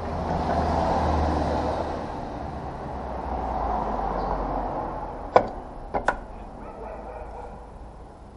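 A vehicle running with a low rumble and road-like noise that swells and fades, then three sharp knocks a little past the middle, two of them close together.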